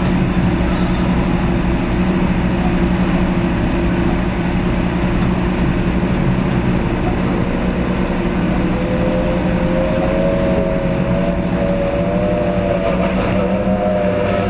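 Skater catamaran powerboat's engines running steadily, with a higher whine that climbs slowly in pitch from about halfway through.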